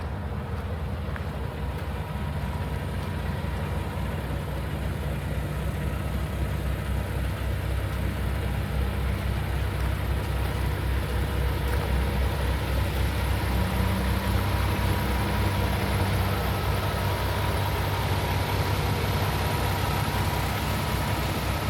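Paccar MX-13 inline-six diesel engine of a Kenworth T880 tractor idling steadily.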